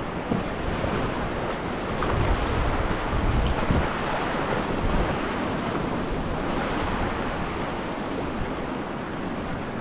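Whitewater of a river rapid rushing steadily, with wind buffeting the microphone.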